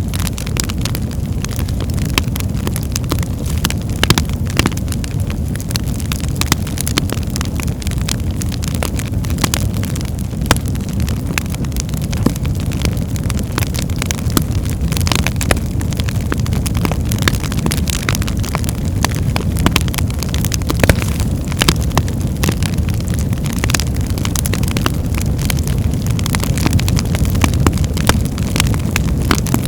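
Birchwood fire burning in a fireplace hearth: a steady low rumble of flames with frequent irregular sharp crackles and pops.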